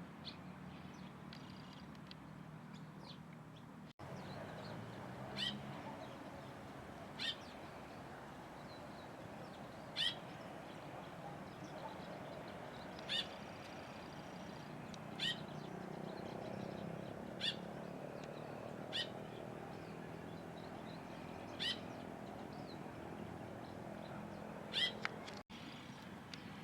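A bird repeating a short, sharp single call note about nine times, every two to three seconds, over a steady low background hum.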